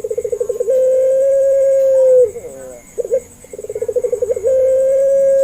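Puter pelung dove cooing twice: each phrase is a quick stuttering run of notes that flows into one long, steady, drawn-out coo which drops in pitch at its end.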